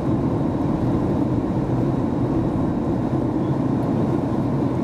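Steady in-flight cabin noise inside a Boeing 737 MAX 8-200: a low, even rumble of airflow and engines with no changes.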